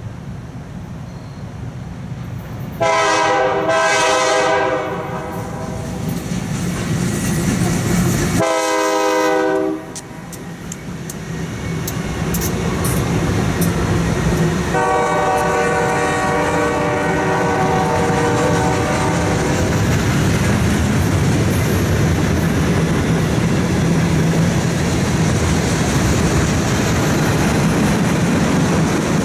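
Locomotive air horn sounding three blasts, long, short and long, followed by a train rolling past close by with steady rumbling and clicking wheels.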